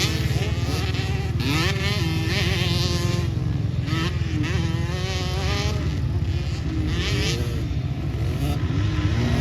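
Pit bike engines racing, several at once, revving up and falling back again and again as the riders accelerate and roll off.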